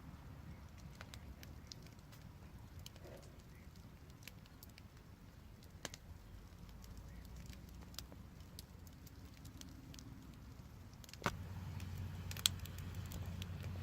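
Wood fire crackling, with scattered sharp pops a few seconds apart over a low steady rumble; a louder pop about 11 seconds in, after which the low rumble swells.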